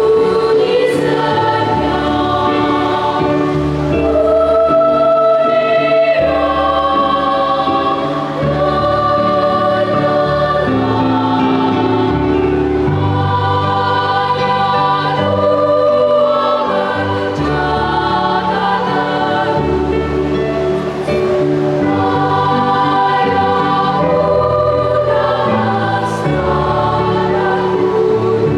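Children's choir singing a Christmas carol in sustained, slowly changing chords over a steady low bass line.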